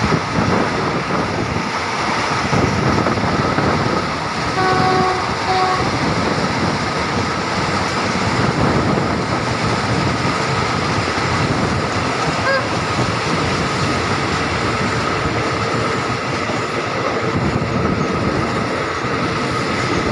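Passenger train running along the track, heard from aboard a carriage with the window open: a steady rumble of wheels and rushing air. A short pitched tone sounds twice about five seconds in.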